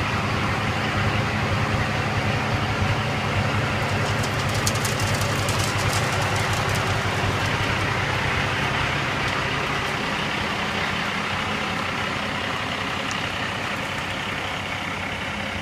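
Dump truck's Cummins ISX diesel engine running steadily, powering the hydraulic hoist that raises the dump box. The sound eases off a little over the last few seconds.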